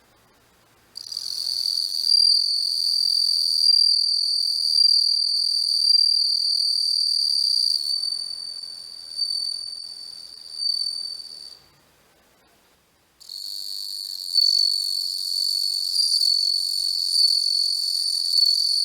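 Japanese bell cricket (suzumushi) singing a high, steady song. It starts about a second in, wavers in loudness, stops for a second or two, then starts again.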